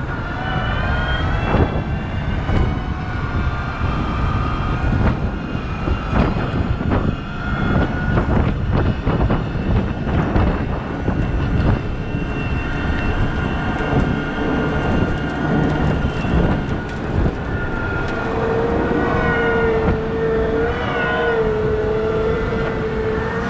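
Cat 972M XE wheel loader working: heavy diesel engine running under varying load, with a whine that rises and falls in pitch, scattered knocks in the middle, and a steadier whine near the end.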